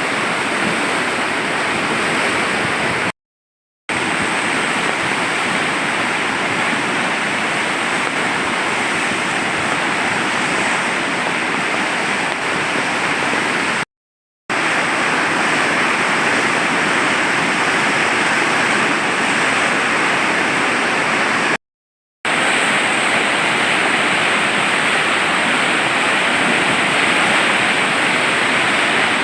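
Swollen Kali Gandaki river in flood, its water rushing in a loud, steady noise. The noise drops out to silence three times, briefly each time.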